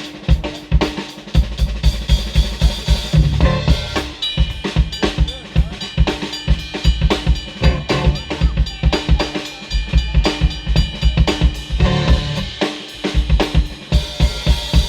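Live band playing an instrumental passage: a drum kit keeps a steady, busy beat of kick and snare strokes under sustained guitar and bass.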